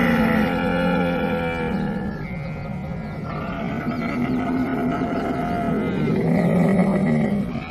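Camel calling: a long, drawn-out call that ends about two seconds in, then a second one that runs until near the end and grows loudest just before it stops.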